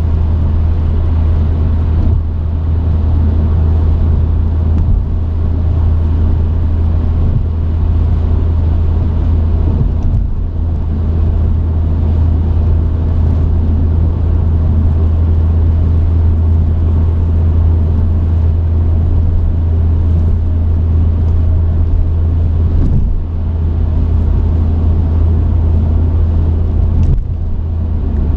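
Truck engine and road noise heard inside the cab: a steady low drone that dips briefly twice in the latter part.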